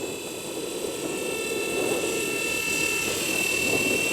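Blade 230 S V2 electric RC collective-pitch helicopter in flight: a steady high motor whine over the whoosh of its rotor blades, growing gradually louder.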